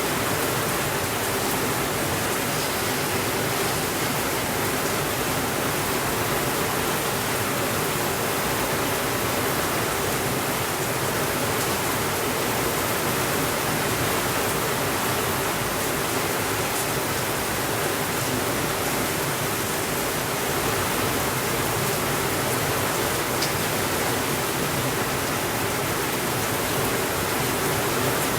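Steady rainfall, an even hiss that does not change, with a few faint ticks.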